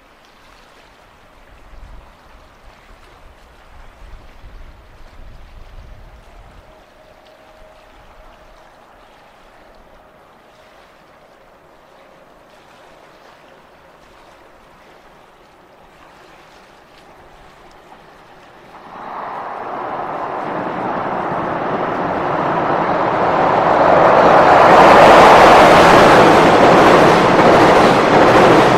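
A JR Freight container train approaches and crosses a steel girder railway bridge. Faint background noise at first, then about two-thirds of the way through the rumble of the train rises sharply and grows into a loud, steady roar of wheels on the bridge.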